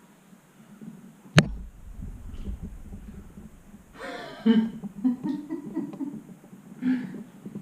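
A sharp knock about a second and a half in, followed by handling rumble, then a person's breathing and low vocal sounds.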